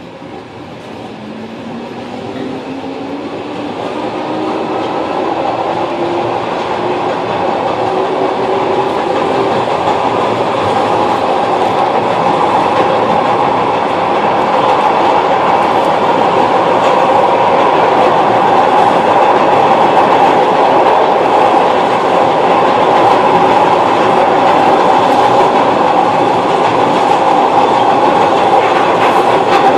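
Glasgow Subway train pulling away: a motor whine rises steadily in pitch and the running noise grows louder over the first ten seconds or so, then the train runs on at speed with a loud, steady rumble.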